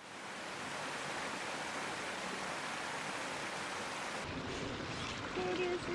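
Mountain stream running, a steady rushing of water that fades in at the start. Near the end a few short held tones sound over it.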